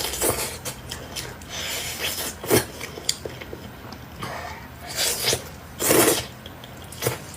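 Close-miked eating: irregular bouts of chewing and gnawing on food, with several louder noisy bursts.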